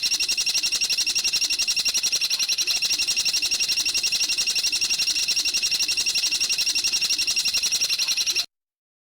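Recorded bird call played as a masteran training track: a loud, high, rapid trill of evenly repeated notes, about ten a second, that cuts off abruptly near the end.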